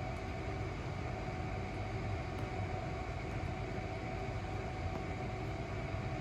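Steady mechanical hum of a running fan: a low drone with a few faint steady tones above it, unchanging throughout.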